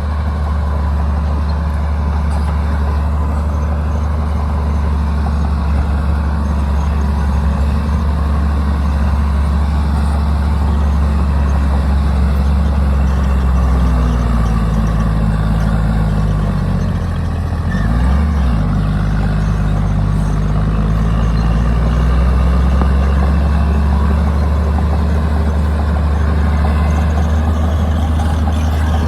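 Komatsu D60-series bulldozer's diesel engine running steadily. About halfway through it slows for a few seconds, then picks back up to speed.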